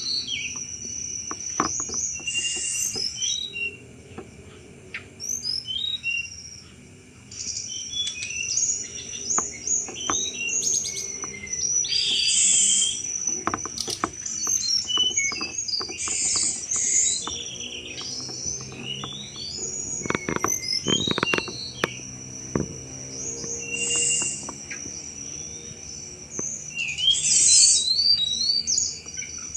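Tledekan gunung bird singing, a run of short, sharp chirps and trills, some high and clicking, over a steady high insect-like buzz.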